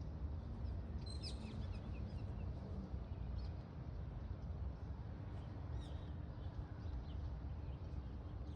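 Outdoor ambience: a steady low rumble, with a few short, high bird chirps about a second in and again around six seconds.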